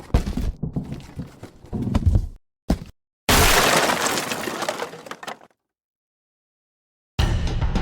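Sound-effect sequence: a run of sharp knocks and thuds, then about three seconds in a loud breaking-glass crash that fades away over about two seconds. Dead silence follows, and music with drums starts near the end.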